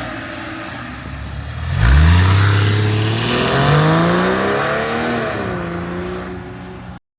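A 2004 Porsche 911's flat-six engine idles, then revs sharply about two seconds in. It keeps climbing for about three seconds and drops back towards idle near the end. The sound cuts off abruptly.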